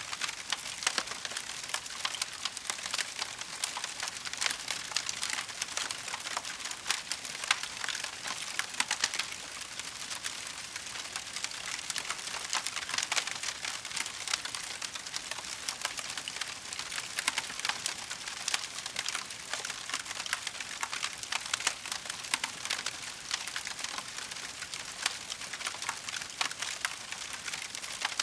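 Wood fire crackling in a fireplace: a steady, dense stream of small rapid crackles and pops.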